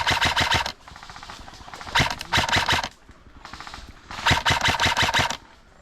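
Airsoft rifle firing three full-auto bursts of rapid, evenly spaced shots, each about a second long: one at the start, one about two seconds in and one near the end.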